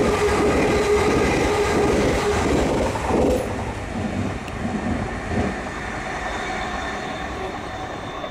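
Electric multiple-unit train passing close, a loud steady running rumble with a held whine. About three seconds in it drops away, leaving the quieter, steadier sound of a train running further off, fading toward the end.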